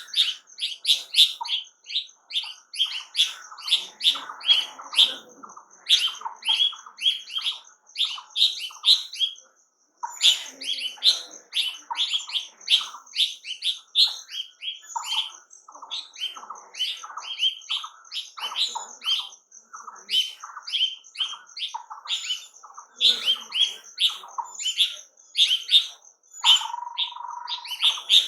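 A chorus of small birds chirping, with many short, quick chirps overlapping almost without pause and a steady high-pitched note running beneath them. The sound cuts out completely for a moment about ten seconds in.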